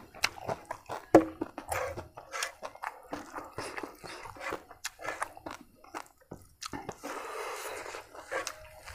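Mouth sounds of a person eating rice and omelet curry by hand: chewing and lip smacks, heard as many short, irregular clicks.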